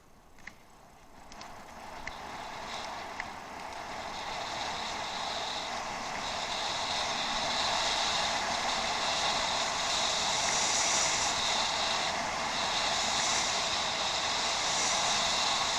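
Bicycle in motion: a few light ticks near the start, then a steady rushing hiss of tyres and passing air that builds over the first several seconds as the bike gains speed, then holds.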